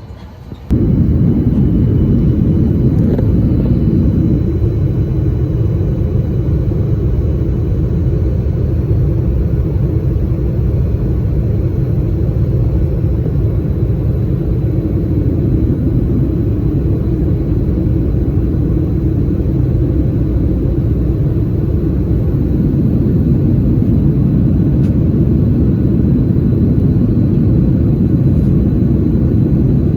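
Jet airliner cabin noise from a Southwest Boeing 737: a loud, steady low rumble of the engines and airflow that starts abruptly about a second in.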